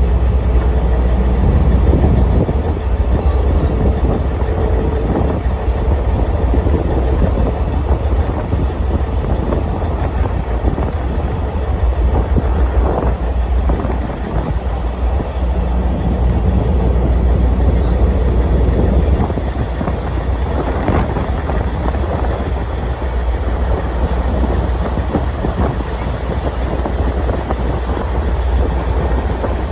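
Boat engine running steadily under way: a loud low drone with a rushing noise over it.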